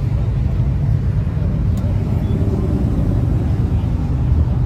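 Car engines running, a steady low rumble with faint held tones above it.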